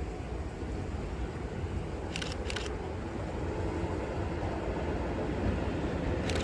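A train approaching, a low rumble that slowly grows louder, with two pairs of short sharp clicks about two seconds in and again near the end.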